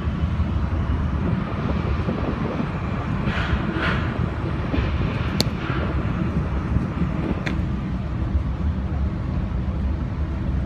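Airport people-mover train running along its elevated guideway, heard from inside the car: a steady low rumble, with two sharp clicks midway.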